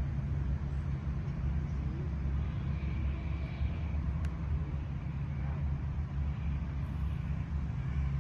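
Steady low rumble of outdoor background noise, with faint short chirps above it.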